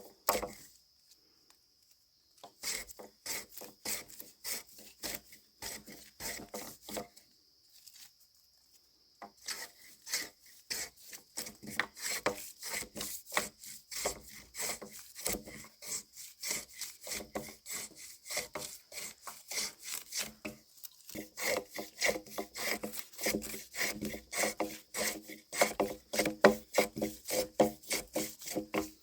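A hand tool working wood in quick back-and-forth rasping strokes, several a second. The strokes stop twice briefly, once just after the start and once about a third of the way in. A steady high-pitched tone runs in the background.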